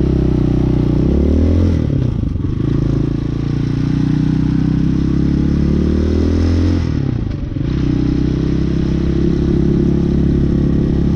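Hawk 250 motorcycle's single-cylinder engine running while riding. Its pitch climbs twice as it revs up, with a brief dip in level after each climb.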